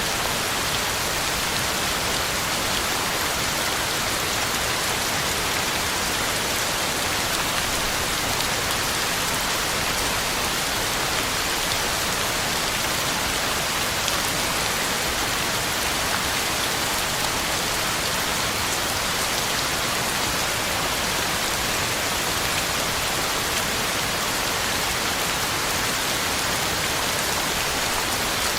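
Heavy rain falling steadily, drops pattering on the ground and on leaves in a constant even hiss.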